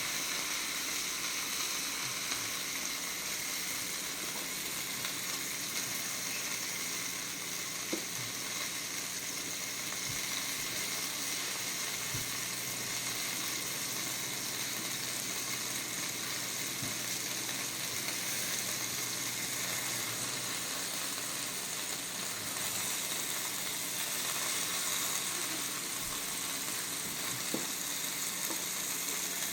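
Chicken pieces sizzling steadily as they brown in a frying pan, with a few faint knocks now and then.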